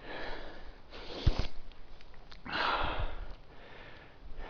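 A man huffing and puffing, out of breath from climbing a steep slope: three long, loud breaths, with a short thump about a second in.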